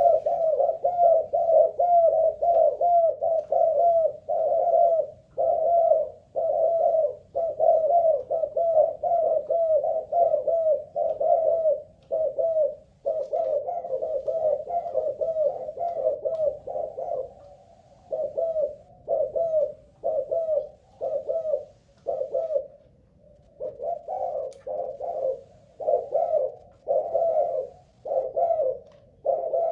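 A spotted dove of the Malaysian singing strain cooing over and over in a long run of short coos, at first about two a second. In the second half the coos come with short gaps between them.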